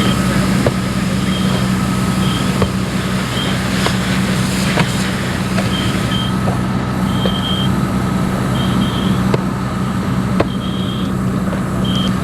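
Fire engine's engine running steadily with a constant low drone. Short high chirps come now and then, with a few light clicks.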